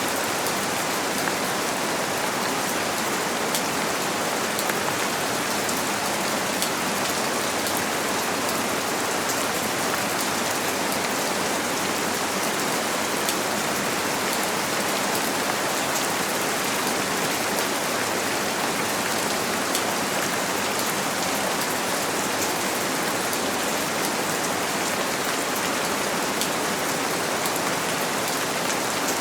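Steady rain pattering on a window, a dense even hiss with many small drop ticks, blended with white noise.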